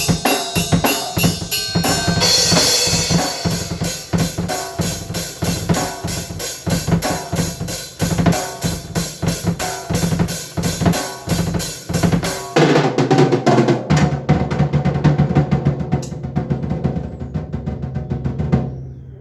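Drum kit playing a fast, steady beat on kick and snare with other instruments. About twelve seconds in, the beat gives way to held, ringing tones that die away near the end.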